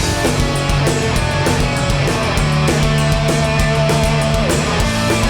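Hardcore punk band playing live: loud distorted guitars, bass and drums, with no vocals.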